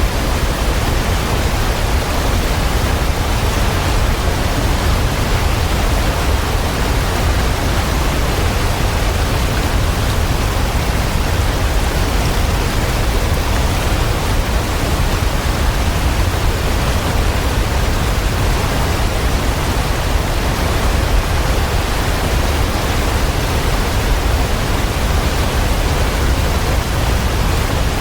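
Waterfall: water falling and splashing in a steady, unbroken rush with a deep low rumble.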